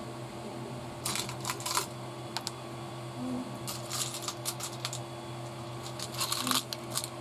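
Small metal screws clicking and rattling as they are picked out and handled, in three short clusters of light clicks, over a steady low hum.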